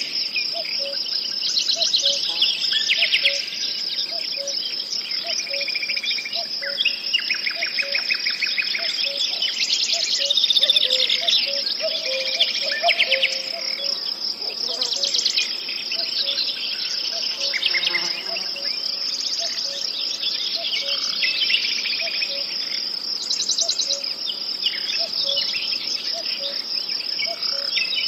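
Nature ambience: a steady, high-pitched chorus of crickets with many birds chirping and trilling over it, and a low note repeating about once a second.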